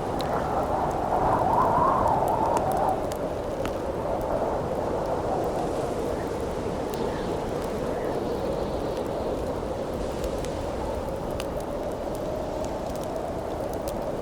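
Howling wind that swells in a gust about a second in and then settles to a steady blow, over a campfire crackling with scattered sharp pops.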